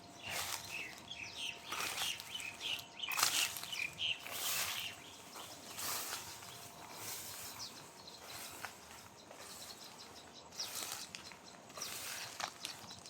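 Birds chirping in a quick run of short calls through the first four seconds or so. Around them are irregular rustling crunches, footsteps on the garden path, over a faint steady evening background.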